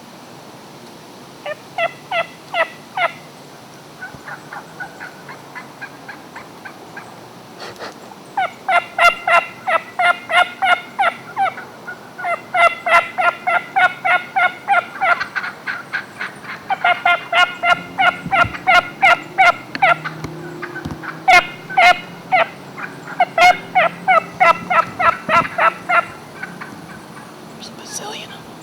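Wild turkeys calling: runs of short, sharp repeated notes, a few at first, then long series one after another from about eight seconds in.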